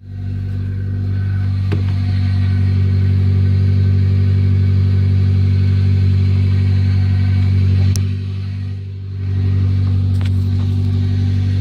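A 6th-generation Toyota Celica's four-cylinder engine idles steadily with its muffler removed, giving a loud, raw, unmuffled exhaust note. The sound drops briefly about eight and a half seconds in, then comes back to the same steady level.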